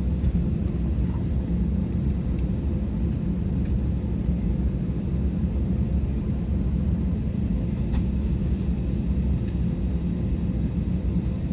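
Steady low rumble heard inside the cabin of an Airbus A320neo airliner, with a few faint clicks.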